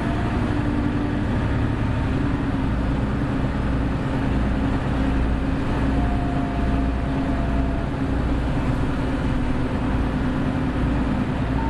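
Hino Blue Ribbon City Hybrid diesel-hybrid city bus running on the road with a steady engine drone. A fainter high whine comes in briefly around the middle.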